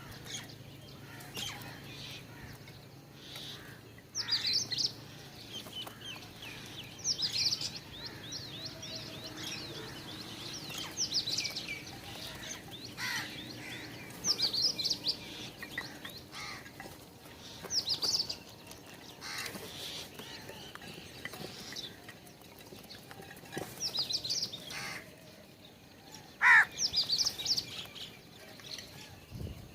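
Small birds chirping and calling in short high-pitched bursts every few seconds, with a longer run of rapid notes near the middle and one louder, lower, falling call near the end.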